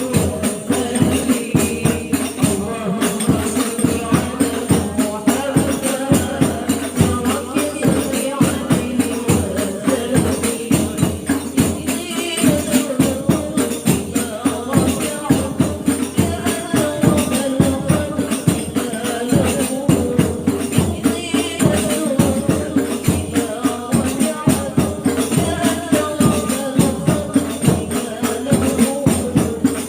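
Sholawat sung by a group of women's voices over hadroh frame drums (rebana) and jingling tambourines beating a steady, quick rhythm.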